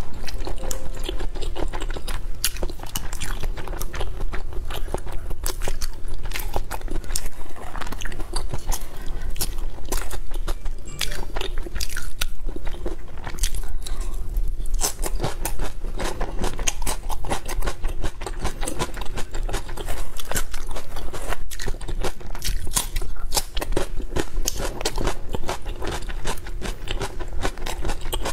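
Close-miked eating: crisp crunching bites and chewing of chili-oil-soaked skewered food such as lotus root slices, a dense run of clicks and crackles throughout.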